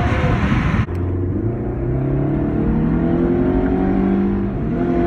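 Chrysler PT Cruiser's loud exhaust heard through open windows as the car accelerates from low speed: the engine note climbs steadily for about four seconds, then drops off near the end.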